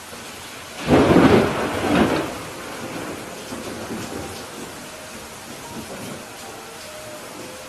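Steady rain with a clap of thunder about a second in: a sudden loud crack that peaks twice and then fades into a lower rumble over a few seconds.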